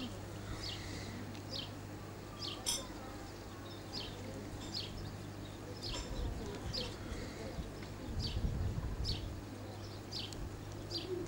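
A bird calling with short, high chirps repeated a little more than once a second, over a low rumble that swells briefly about eight seconds in.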